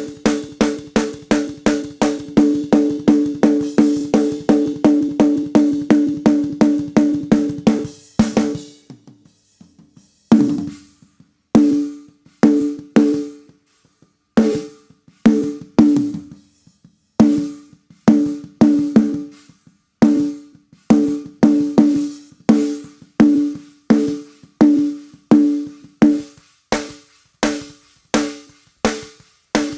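Recorded snare drum track played back, a fast run of even hits for about eight seconds, then steady single strikes about every two-thirds of a second. Each hit rings with a honky tone in the low mids that is being EQ'd out.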